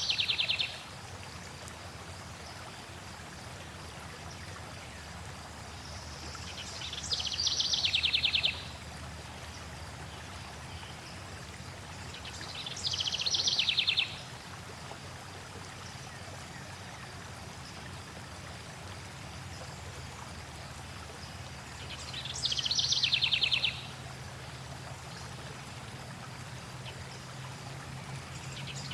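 A songbird repeats the same short song four times, at gaps of about five to nine seconds. Each song is a high note running into a fast, rattling trill. Under it is a steady hiss of flowing water.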